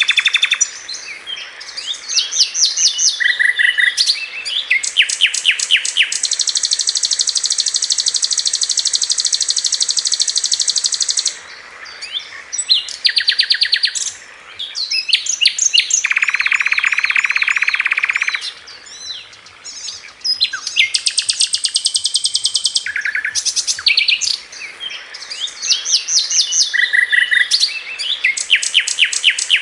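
Sikatan londo (flycatcher) song used as a masteran tutoring recording: rapid high trills and chattering rattles in quick bursts. These include a long, even trill lasting about five seconds and a lower trill about two seconds long past the middle. The same run of phrases comes round again near the end.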